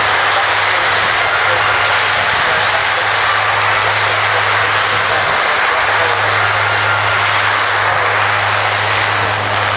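Rolls-Royce Allison AE2100D3 turboprops of a C-130J Hercules running loud and steady: a dense engine and propeller roar over a steady low drone.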